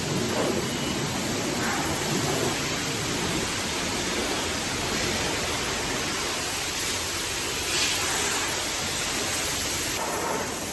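Self-serve car wash pressure wand spraying soapy water onto a vehicle: a steady spray with no breaks.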